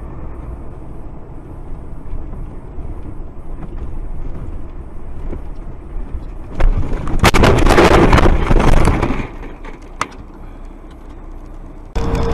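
Steady road and engine rumble of a moving vehicle. About six and a half seconds in, a sudden loud crash of impacts and scraping lasts a couple of seconds, then dies back to the rumble. Near the end the sound cuts abruptly to a different steady droning tone.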